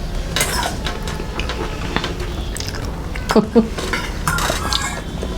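Cutlery and dishes clinking and scraping during a meal, with many short clicks, and brief voices about three and a half seconds in.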